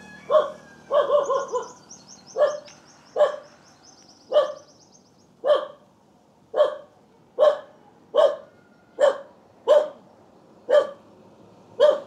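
A dog barking repeatedly, about one bark a second, with a quick cluster of barks near the start. A fast, high-pitched ticking trill sounds behind it for the first five seconds or so.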